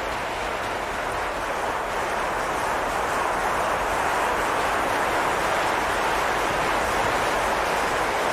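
Autorack freight cars rolling past close by: a steady rush of steel wheels on rail, getting slightly louder about three seconds in.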